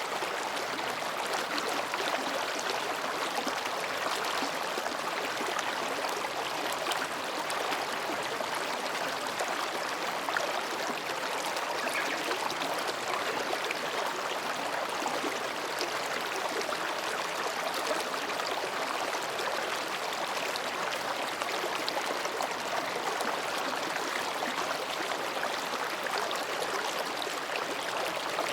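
Mountain stream flowing gently between rocks: a steady, unbroken babble of running water.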